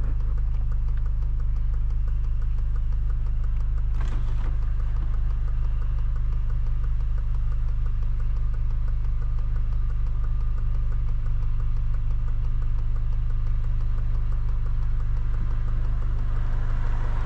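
Engine and road drone of an 8th-generation Honda Civic Si, heard from inside the cabin. The four-cylinder runs at steady low revs with no revving.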